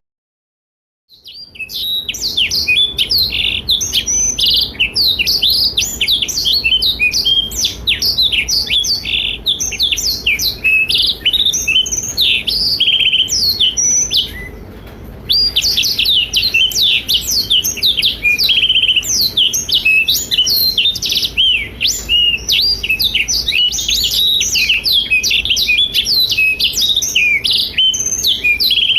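Black-throated canary (blackthroat) singing a long, fast, continuous twittering song of rapid high gliding notes. There is a brief silence about a second in and a short pause just before the middle.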